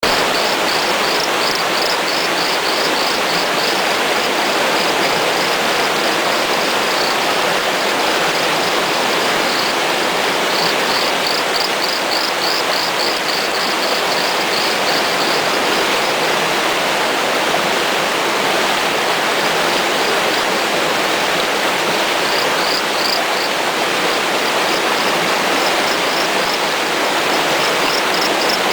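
Wayanad dancing frog (Micrixalus saxicola) calling: runs of short, high-pitched notes repeated several times a second, stopping and starting, over the steady, louder rush of a stream.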